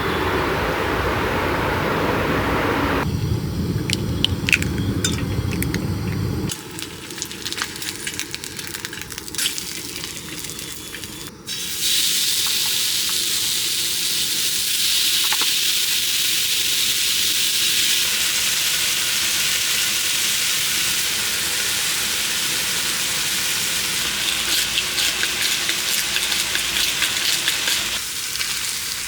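Food frying in a pan: a steady sizzling hiss that starts suddenly about twelve seconds in, after a stretch of scattered clicks and taps.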